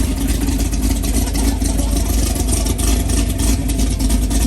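Car engine running steadily, a loud low engine sound with no clear change in revs.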